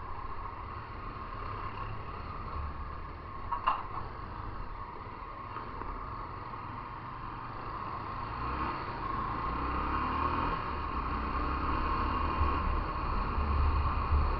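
Motorcycle being ridden: steady engine and road noise with low wind rumble on the microphone. A short sharp click comes about four seconds in, and the noise grows louder in the second half.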